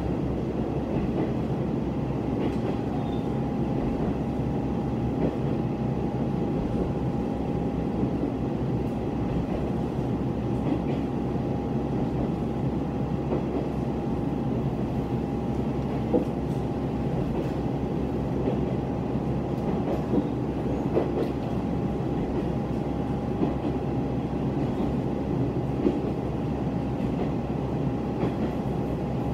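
Diesel railcar heard from inside, running along the line at speed: a steady rumble of engine and wheels on rail with a constant whine, and scattered light clacks from the track.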